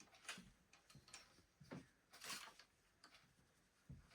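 Near silence with a few faint, scattered clicks and taps: a work light being moved and set in place.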